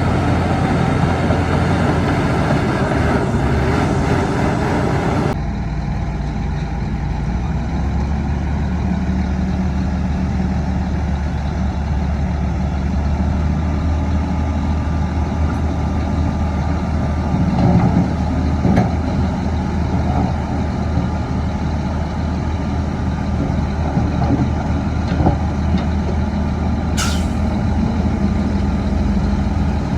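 Heavy diesel engines of a bulldozer and dump trucks running steadily at a fill site. The engine sound changes abruptly about five seconds in, and a brief high-pitched hiss comes near the end.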